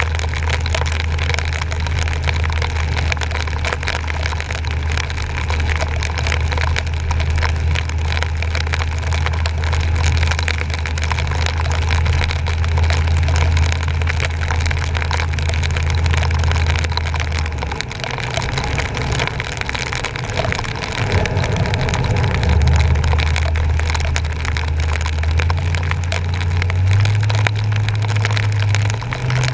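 A truck driving through flooded, rain-soaked streets, heard from its front bumper. A steady low engine drone sits under a constant hiss of water and rain. The drone drops away about 18 seconds in, comes back, then climbs in pitch in steps near the end.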